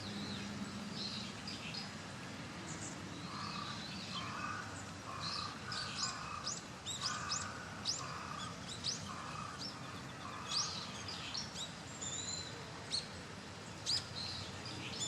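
Birds calling outdoors: short, sharp high chirps, coming thick and fast from about a third of the way in, over a steady background hiss.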